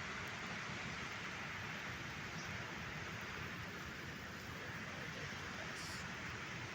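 Steady rushing of flowing water: an even hiss that does not let up or change.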